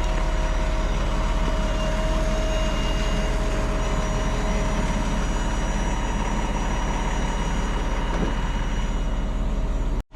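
A heavy diesel engine running steadily with a low rumble and a faint whine.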